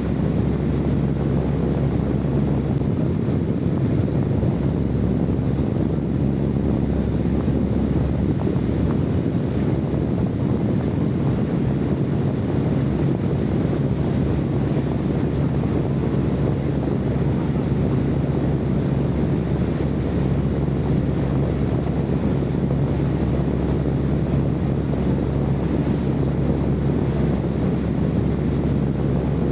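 Steady, unchanging low rumbling noise, heaviest in the bass, with a constant hum running through it.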